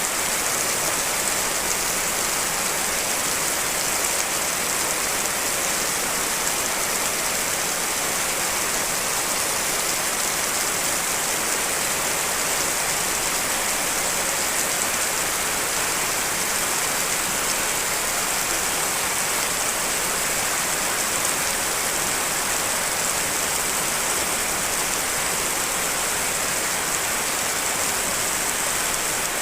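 Steady rain, several rain recordings layered together into a dense, even hiss.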